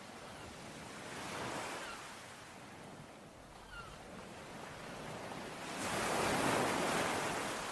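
Sea waves washing onto a shore, a smaller wave about a second in and a louder one breaking near the end. A bird gives faint short chirps a couple of times.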